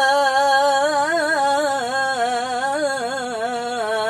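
A solo voice chanting Quran recitation in the melodic tilawah style, drawing out one long unbroken syllable with wavering ornamental turns in pitch.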